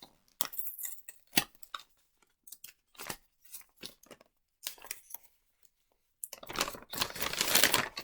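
A small parcel's wrapping being handled and torn open: scattered crinkles and taps, then a longer, louder tearing rustle in the last two seconds.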